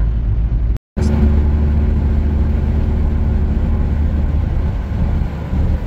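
Car interior while driving: a steady, loud low rumble of engine and road noise. It breaks off for a split second just under a second in, where the recording is cut.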